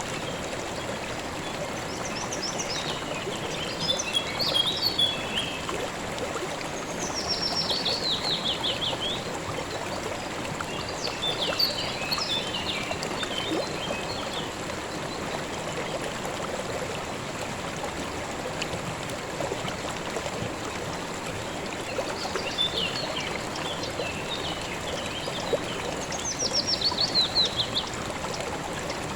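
River water flowing steadily, with small birds singing over it in short phrases. A rapid falling trill comes twice, about eight seconds in and near the end.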